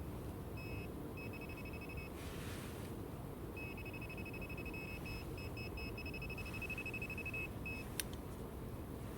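Metal detector beeping on a target in the ground: a high, steady-pitched tone, first a few short beeps, then long runs of rapid pulses as it is passed over the spot. A single sharp click near the end.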